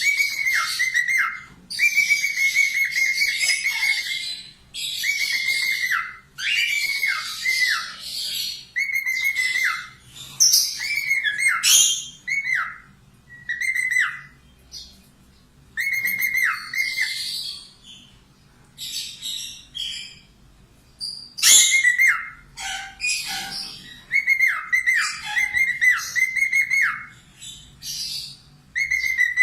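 Budgerigar chattering and warbling in repeated bouts of a second or two, each a rapid mix of scratchy chatter and short whistled notes that dip in pitch, with brief pauses between.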